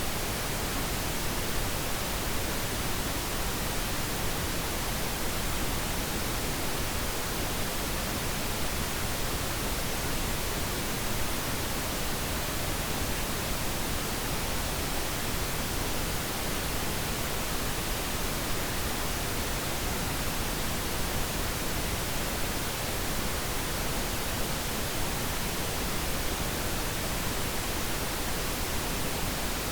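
Steady pink noise: an even, unchanging hiss spread across the whole range from low rumble to high hiss, with no breaks or other sounds.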